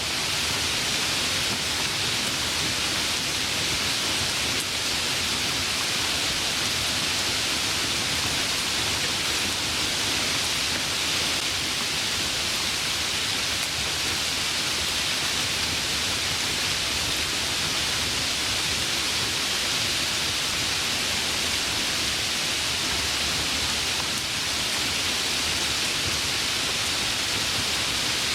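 Steady rain falling, a continuous even hiss with no breaks or changes.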